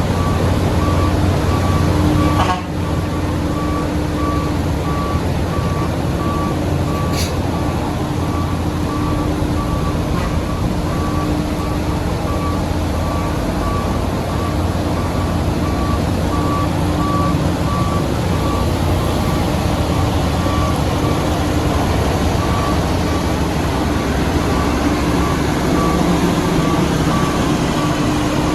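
Diesel heavy construction machinery running steadily, with a reversing alarm beeping throughout at about two beeps a second.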